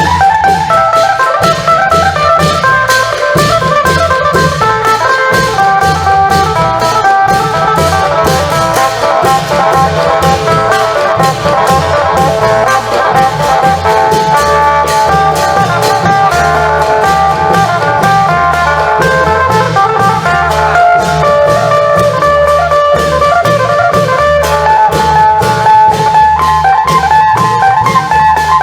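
Isan klong yao long-drum ensemble playing: a phin lute carries the melody over a fast, steady beat of drums and cymbals, with a repeating bass line underneath.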